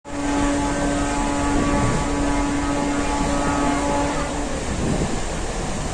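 A moving train in the rain: a steady rushing noise, with a steady pitched tone held over it for most of the first four and a half seconds, broken briefly about two seconds in.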